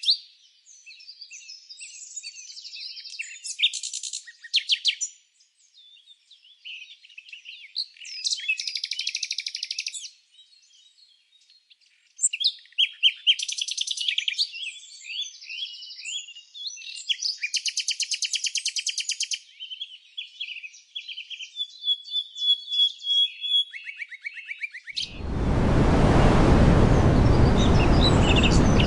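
Songbirds chirping and singing in short high-pitched phrases and fast trills. About 25 seconds in they give way abruptly to a steady rushing noise that lasts to the end.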